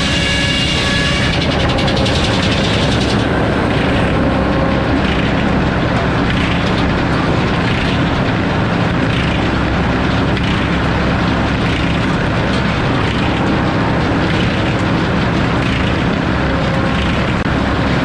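Circular sawmill running: the head saw cuts through a log with a steady, loud mechanical din. A few clear whining tones at the start give way to a fuller, denser cutting noise after about a second.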